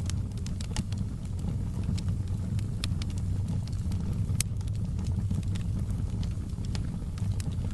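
Wood fire in a fireplace crackling and popping, with irregular sharp snaps over a steady low rumble.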